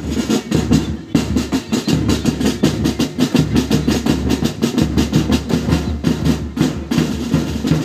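Drum corps of a military pipe band, side (snare) drums with tenor and bass drums, playing a fast run of strokes.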